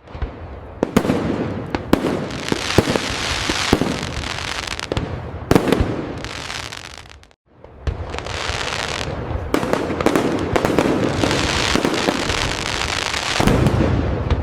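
Fireworks display going off in a dense barrage: many sharp cracks and bangs over deep booms and a continuous crackle. It drops away briefly about halfway through, then starts up again just as heavily.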